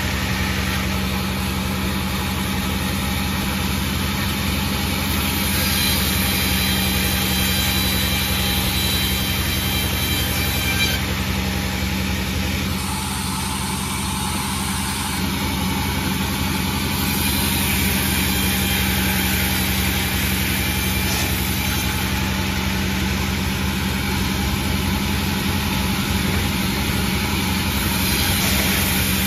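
Panda 36 sawmill running steadily: a constant low machine hum with dense mechanical noise over it.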